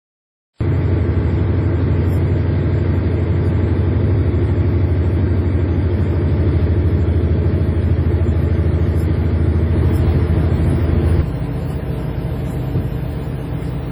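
A fishing boat's engine running steadily with a deep, even hum; it cuts in abruptly about half a second in. About eleven seconds in it drops slightly in level and the low hum changes, as if throttled back.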